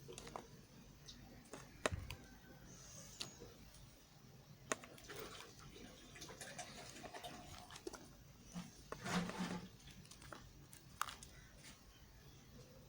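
Knife cutting into soft soap: faint, scattered crisp clicks and short scraping strokes, with a longer scrape about nine seconds in.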